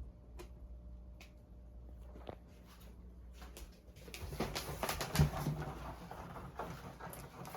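A cat scratching and biting at a piece of styrofoam: a few faint clicks, then from about four seconds in a dense run of irregular scraping and clicking.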